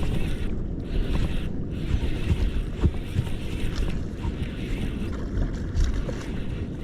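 Wind rumbling on the microphone over water sloshing at the shoreline, with a few small knocks.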